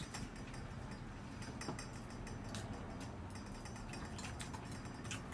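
Faint scattered clicks of tableware against dishes over a low steady room hum.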